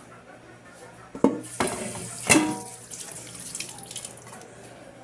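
Kitchen tap running into a sink for about a second and a half, with two sharp knocks about one and two and a half seconds in.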